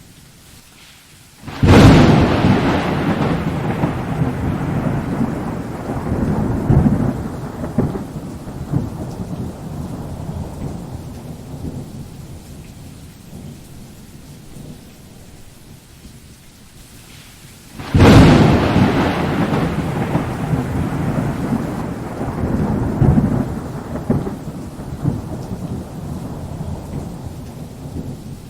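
Thunderstorm: two thunderclaps, one about two seconds in and another a little past halfway. Each starts with a sudden crack and rolls on in a long rumble that fades over several seconds, over steady rain.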